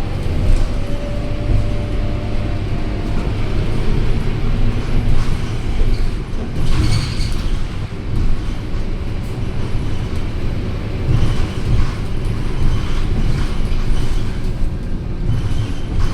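Scania K230UB single-deck city bus on the move, heard on board: its five-cylinder diesel engine and road noise make a steady low rumble, with interior rattles. A brief hiss comes about seven seconds in.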